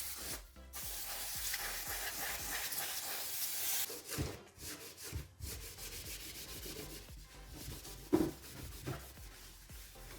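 A steady spraying hiss for about three seconds, then irregular hand rubbing and scrubbing with a few soft knocks, the loudest about eight seconds in.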